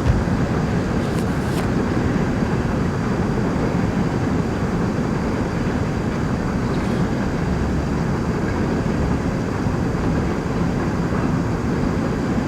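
Steady rumble of a train passing, an even, unbroken noise with no rise or fall.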